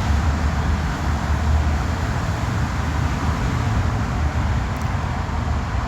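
Steady low rumble with an even hiss, the sound of a vehicle or road traffic running continuously.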